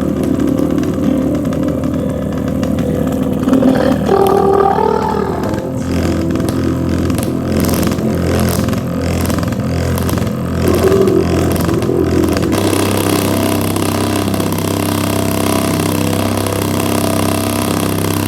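JBL Flip 4 portable Bluetooth speaker playing a bass-boosted song at high volume and overdriving, so the deep bass comes out as a distorted, engine-like buzz. Crackling clicks run through the middle of the stretch: the speaker blowing out.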